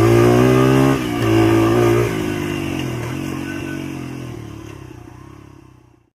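2002 Honda XR80R's small single-cylinder four-stroke engine running while ridden, its pitch shifting slightly about one and two seconds in, then fading out near the end.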